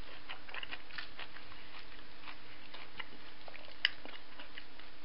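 People chewing and biting into Sumo mandarin segments: scattered faint clicks of mouth and fruit, with one sharper click about four seconds in.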